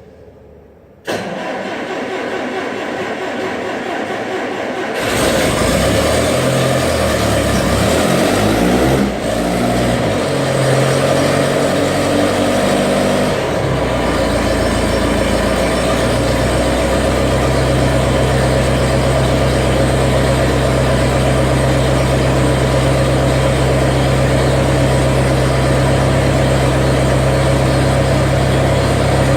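Skid steer engine starting: sound comes in suddenly about a second in and grows louder around five seconds in. Its pitch wavers for several seconds, then it settles to a steady run.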